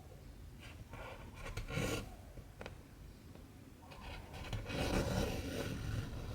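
Cotton embroidery thread being drawn through cross-stitch fabric, a rasping rub heard in two pulls, the second longer.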